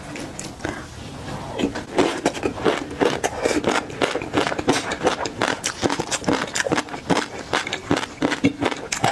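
Close-miked eating sounds: chewing with rapid, irregular wet, crackly mouth clicks that grow denser from about two seconds in.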